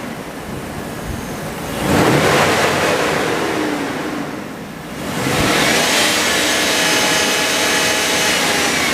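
Chevrolet 3500 pickup truck engine being revved with the truck parked. It is blipped up about two seconds in and falls back, then revved again about five seconds in and held at raised revs for a few seconds before easing off near the end.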